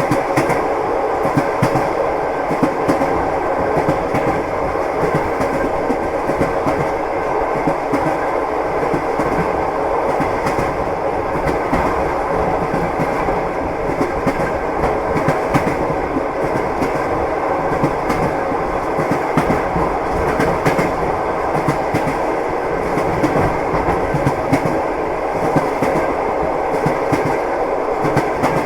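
Train wheels clattering on the rails of a moving train: a steady running rumble with frequent small irregular clacks and knocks.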